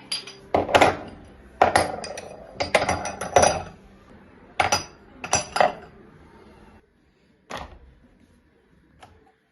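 Dishes and cutlery clinking and knocking as they are handled: a quick run of sharp clinks for about seven seconds, then two more single knocks near the end.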